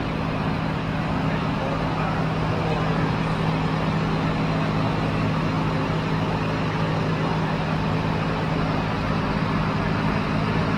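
Steady low mechanical hum with a constant noise wash, like a running vehicle engine.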